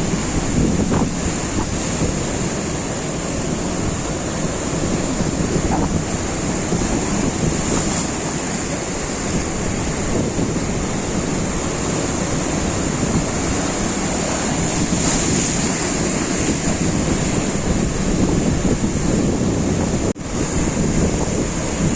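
Ocean surf washing and breaking on a beach, a steady rushing noise, with wind buffeting the microphone. The sound drops out briefly about twenty seconds in.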